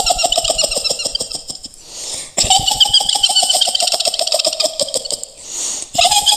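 A shrill witch's cackle in the Mak Lampir style: long runs of rapid, stuttering 'hihihi' laughter on a high pitch that slowly sinks. One run ends just under two seconds in, a second follows after a short breath, and a third begins near the end.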